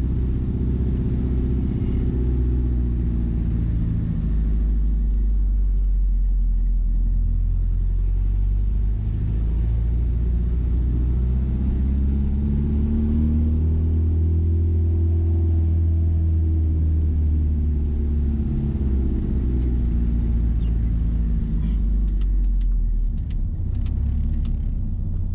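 Mazda B-series pickup's engine, running on Holley Sniper EFI, rumbling low while driving slowly, its note rising and falling with the throttle. A few sharp clicks come near the end.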